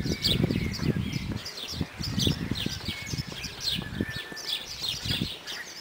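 A flock of small birds chirping busily, a fast string of short, quickly falling chirps overlapping one another, with some low thumps in the first second or so.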